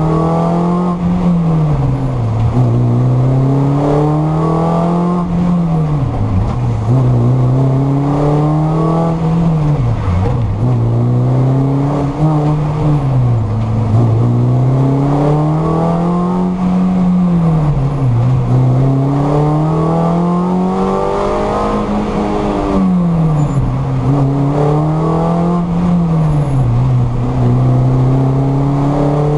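A race-prepared Mini Cooper's four-cylinder engine, heard from inside the cabin under hard racing, its revs climbing steadily and then dropping sharply again and again as the driver accelerates, changes gear and slows for corners.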